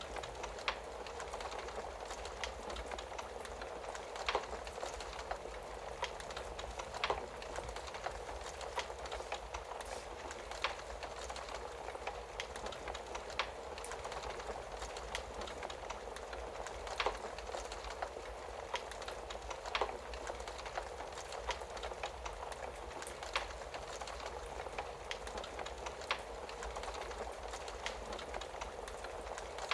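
Wood-burning fireplace crackling: a steady hiss of burning wood with frequent sharp pops at irregular intervals, a few of them louder.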